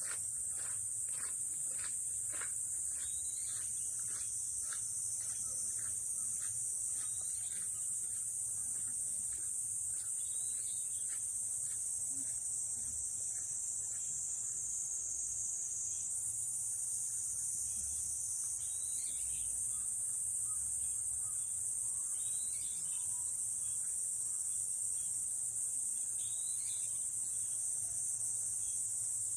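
A steady, high-pitched chorus of insects, with a short bird chirp every few seconds. Over the first several seconds there is also a run of regular ticks, about two a second, that fades out.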